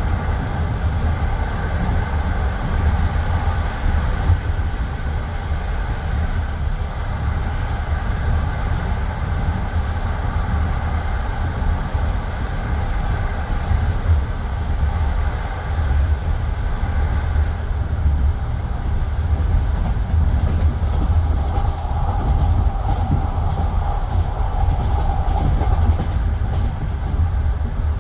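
Passenger railway carriage rolling along the track: a steady, loud rumble of wheels on rails with a faint steady whine above it.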